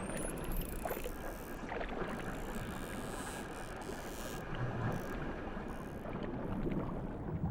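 Underwater rushing water as dolphins swim after sardines, with a brief high rising whistle right at the start.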